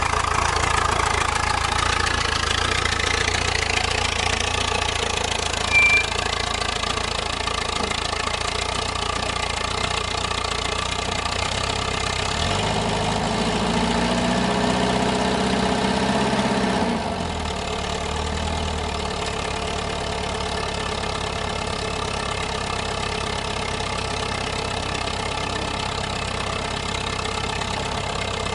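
An engine running steadily, its pitch rising over the first few seconds. A deeper hum comes in about halfway and drops out about 17 seconds in, leaving the running slightly quieter.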